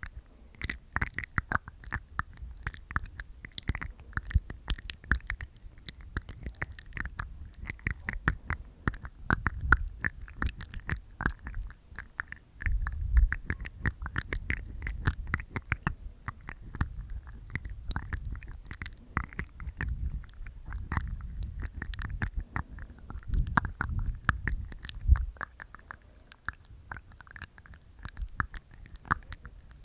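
Close-miked ASMR mouth sounds from inside the mouth: a dense, irregular run of wet tongue clicks and teeth sounds, with a few louder low thumps.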